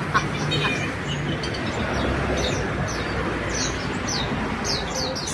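Small bird chirping: short falling chirps in quick runs of three or four, more frequent from about two seconds in, over a steady rushing background noise.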